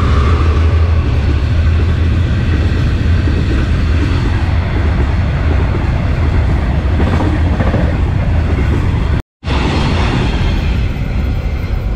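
Empty open-top freight wagons of a long train rolling past at speed close by: a loud, steady rumble and rattle of wheels on the rails, with a faint squeal fading out in the first second. The sound cuts out for a moment about nine seconds in.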